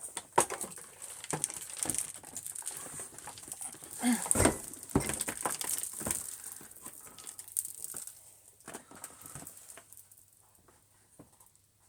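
Handling noises from an upturned upright vacuum cleaner: irregular clicks, knocks and rustling as the underside and the debris caught around the brushroll are handled, with a burst of louder knocks about four seconds in, then fewer, quieter sounds toward the end.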